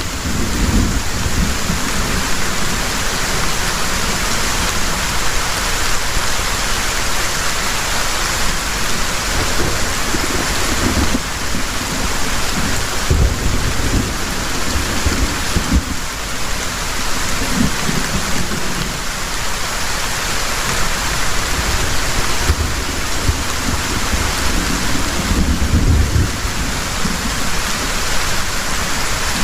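Heavy rain falling steadily as a dense, even hiss. Low rumbles of thunder come and go several times, the strongest near the end.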